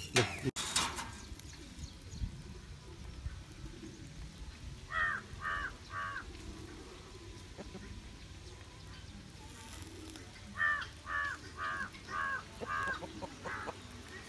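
A bird giving short, harsh repeated calls: three in quick succession about five seconds in, then a longer run of six or seven from about ten seconds in. A sharp knock sounds right at the start.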